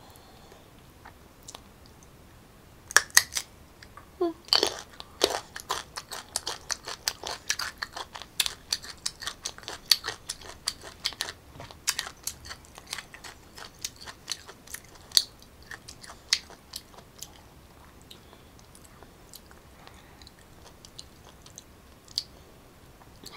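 A person biting into a raw green mango with two loud crunches about three seconds in, then chewing the firm, crunchy flesh with many crisp crunches that thin out and stop a few seconds before the end.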